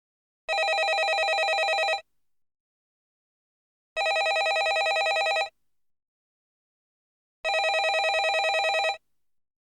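Landline telephone ringing: three rings of about a second and a half each, one every three and a half seconds, each with a fast trill, and silence between them.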